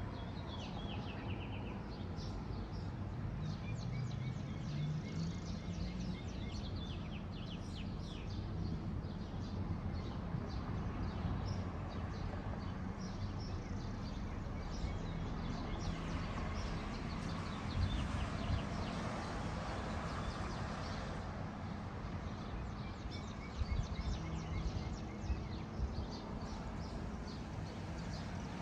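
Several songbirds chirping and singing, with quick runs of repeated notes, over a steady low rumble and a few brief low bumps.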